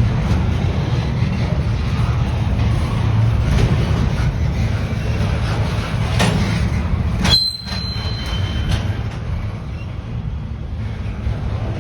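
A train rumbling past on the rails, a steady low rumble. About seven seconds in, a brief high-pitched squeal lasts a second or so, typical of wheels or brakes on the rail.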